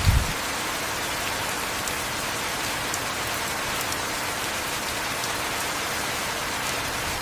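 Heavy rain falling steadily, an even hiss without a break. There is one brief low thump right at the start.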